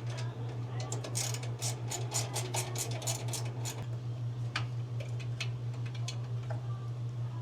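Small metallic clicks of mini pliers working a screw tight on a clothes-dryer motor mount: a quick run of about five clicks a second for a few seconds, then a few scattered clicks, over a steady low hum.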